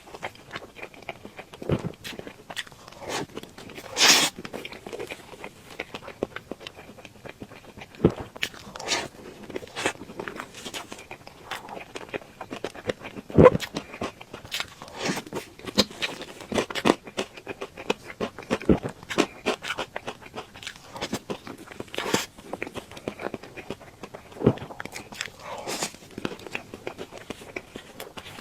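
Close-miked eating sounds of a person eating cake: chewing and wet mouth noises with irregular short clicks and scrapes, a couple of sharper ones about 4 and 13 seconds in.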